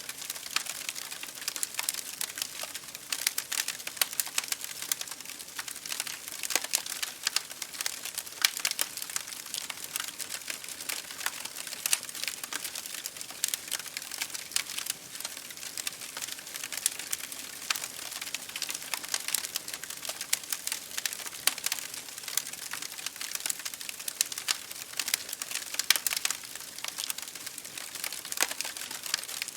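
Wood fire crackling in a fireplace, with many sharp snaps and pops over a steady hiss of rain against a window pane.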